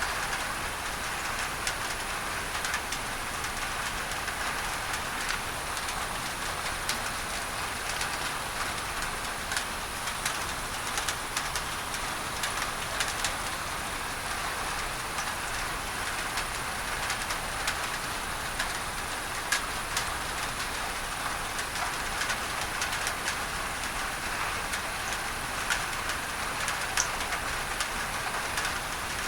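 Rain drumming on a tin roof: a steady hiss dotted with many sharp drop ticks, mixed with a steady bed of added masking noise.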